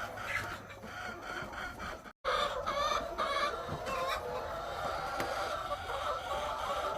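A large flock of egg-laying hens clucking together in a steady, dense chorus of many overlapping calls. The sound drops out completely for an instant about two seconds in.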